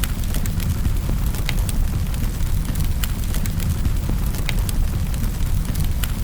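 Wood fire burning in a fireplace: sharp crackles and pops, the strongest about every second and a half, over a steady low rumble.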